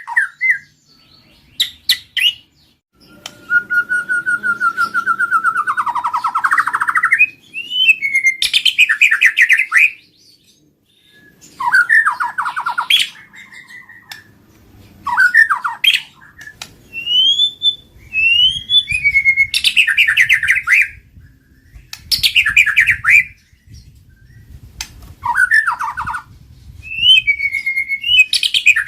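White-rumped shama (murai batu) singing loud, varied phrases every couple of seconds. The phrases mix clear rising and falling whistles, one long low whistle, and fast rattling trills, with short pauses between them.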